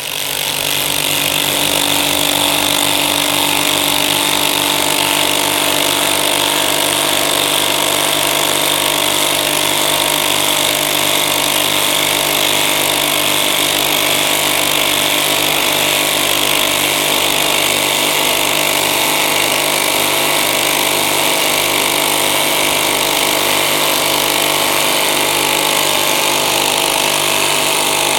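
Two cordless impact drivers, a Fein ASCD18-200W4 18 V and a Makita BTD136 14.4 V, hammering continuously as they drive large hex-head TimberLok screws into wood under heavy load. A loud, steady, rapid rattling of the impact mechanisms.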